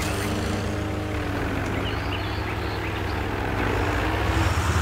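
Cartoon monster truck engines rumbling at idle on the start line, a steady low rumble that grows a little louder near the end as they rev.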